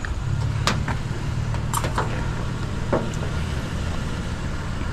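Vehicle engine running with a steady low hum that strengthens just after the start, with a few sharp clicks and knocks.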